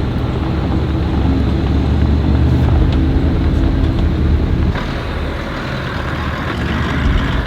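A motor vehicle running, with a steady low engine rumble; a little past halfway it drops slightly in level and a higher hiss comes in.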